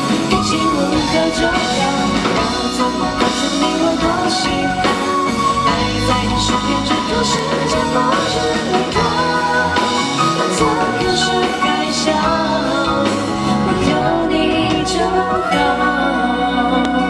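Live pop band music: a woman singing over drums and guitar.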